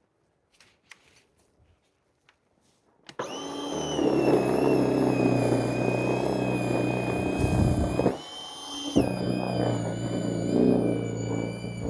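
Battery-powered Voltask electric snow shovel starting up about three seconds in and running with a steady high motor whine over a churning rumble. It cuts out briefly a little past the middle, then starts again.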